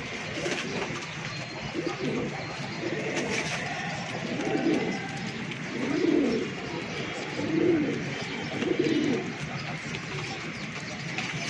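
Domestic pigeons cooing: a run of low coos, each swelling and falling in pitch, repeating every second or so.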